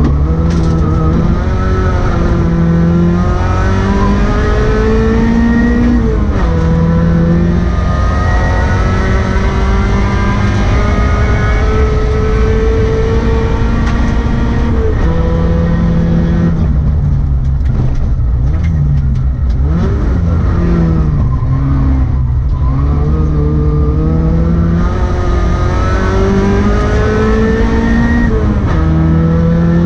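Rally car engine pulling hard and revving up through the gears, its pitch climbing and dropping back at each upshift. About two-thirds of the way through, the revs fall and waver as it slows and shifts down, then it climbs again, over a steady low road rumble.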